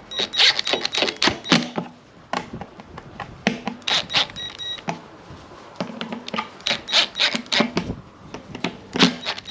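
Irregular clicks, taps and rattles of sheet-metal screws and small feeder parts being handled and started by hand while fastening a deer feeder's control unit, with a short high squeak a little after four seconds.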